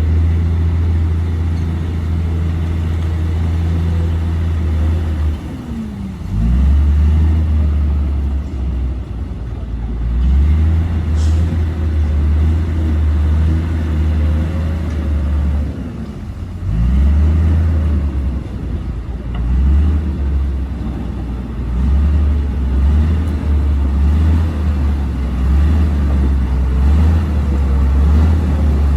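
Komatsu D58P bulldozer's diesel engine running under load, a deep steady drone. Twice, about six and seventeen seconds in, the revs drop and climb back. In the second half it surges in short pulses.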